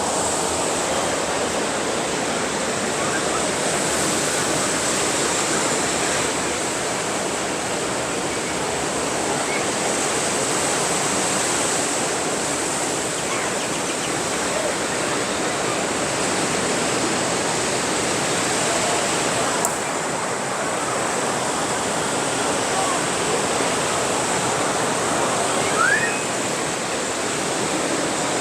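Sea surf washing onto a beach, a steady rushing hiss with slight swells.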